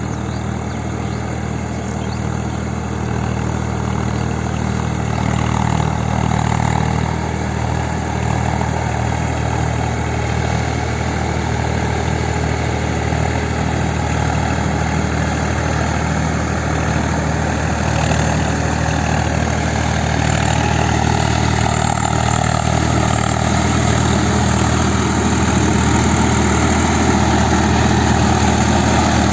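Swaraj 855 tractor's three-cylinder diesel engine running steadily, growing a little louder toward the end.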